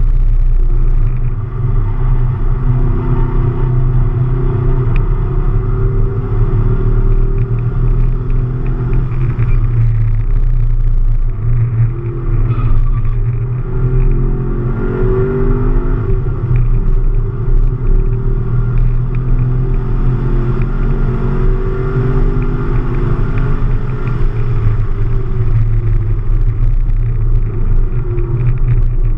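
Camaro SS V8 engine heard from inside the cabin at track pace, over a heavy low rumble. Its note climbs under acceleration and drops back off the throttle several times.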